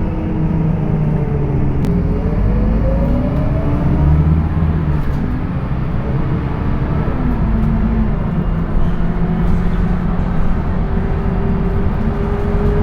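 Scania K230UB bus's diesel engine and ZF automatic gearbox running under way, heard from on board. The engine note falls, then climbs again about two seconds in, and changes again around seven seconds in as the gearbox works through its gears.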